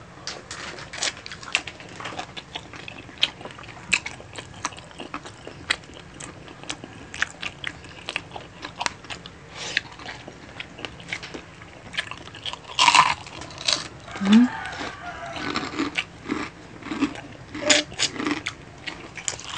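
Close-up eating sounds: wet chewing, sucking and smacking from two people gnawing spicy adobo chicken feet. There are a couple of louder crunches about two-thirds of the way through, from bites of crispy chicharon (fried pork rind).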